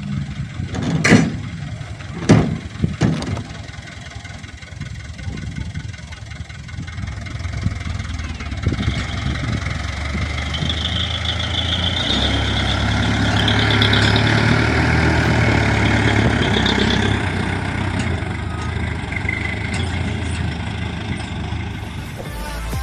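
Hino Dutro dump truck's diesel engine running, with a few sharp knocks in the first three seconds. From about eight seconds in the engine gets louder and a high whine joins it, as it works the hoist to tip the load.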